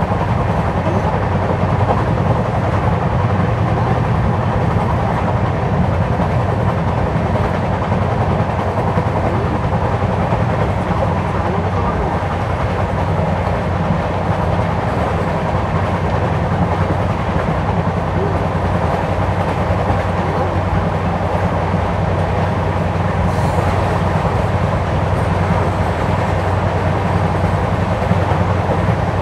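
LHB passenger coach running at speed: a steady rumble of wheels on the rail.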